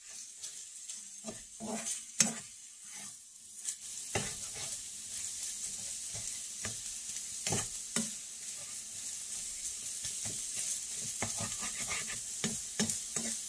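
Ground beef and eggs sizzling in a frying pan as they finish cooking, with scattered clicks and scrapes of a utensil against the pan. The sizzle gets fuller and louder about four seconds in.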